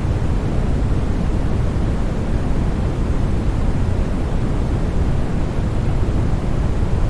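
Steady sleep-aid noise for soothing a baby: an even, deep rushing sound, heavier in the bass than in the treble, with no changes or breaks.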